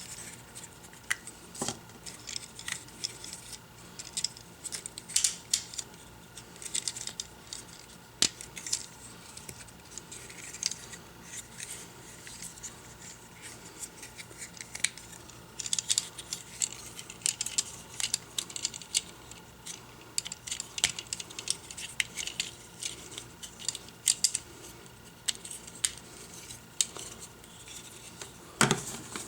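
Hard plastic parts of a Transformers action figure clicking, snapping and tapping as it is handled and transformed: irregular small clicks and knocks throughout, some louder than others.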